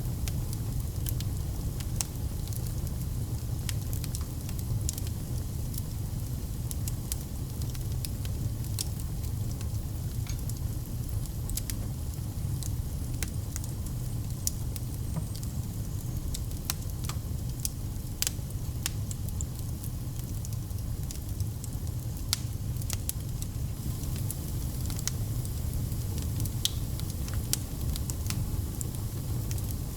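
Fireplace fire burning: irregular sharp crackles and pops over a steady low rumble of the flames.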